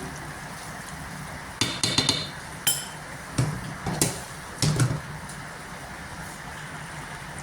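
Kitchenware clinking and knocking: a quick cluster of ringing clinks, then four or five separate knocks over about three seconds, over a steady background hiss.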